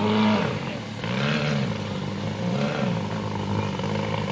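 Vintage racing tunnel boat's engine running hard, its pitch surging and dropping about once a second as the hull bounces over rough water.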